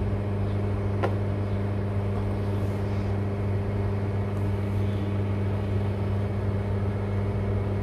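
Mini foldable washing machine's electric motor running a wash cycle with a steady hum, one light click about a second in.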